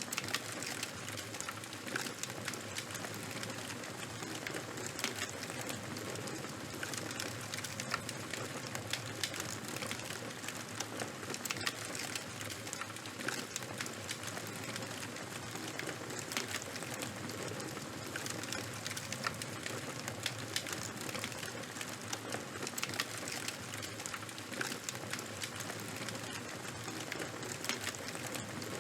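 Charcoal and bonfire burning, crackling steadily: dense small pops and snaps over a continuous hiss.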